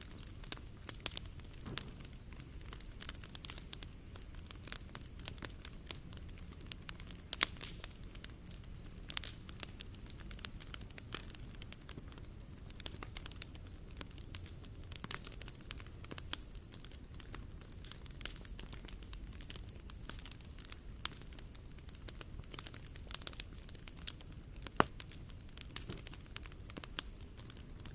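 Wood fire burning in a fire pit, crackling steadily with many small sharp pops and a few louder ones, such as one about seven seconds in and one near the end.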